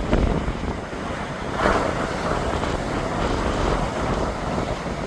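Ocean surf breaking at the foot of the cliffs, with wind buffeting the microphone in a steady low rumble; a wave breaks louder about a second and a half in.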